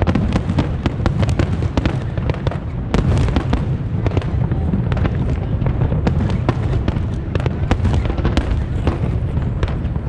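Aerial fireworks display in a dense barrage: rapid, overlapping bangs and crackles over a continuous low rumble of booms, with no pause.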